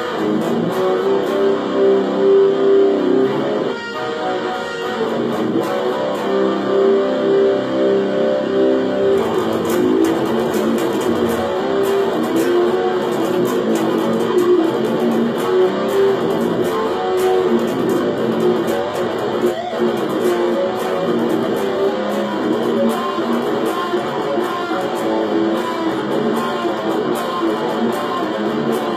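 B.C. Rich Lucky 8 eight-string electric guitar played through a Korg AX1500G multi-effects processor and a mini amp, a continuous run of picked notes. The tone turns brighter, with more treble, about nine seconds in.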